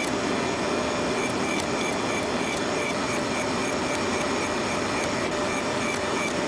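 A machine running steadily, with a light tick repeating about three times a second.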